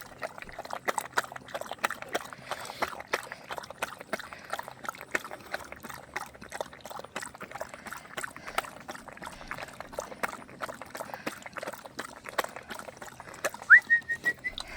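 Dog lapping water, a quick steady run of small wet clicks. A brief high rising whine near the end.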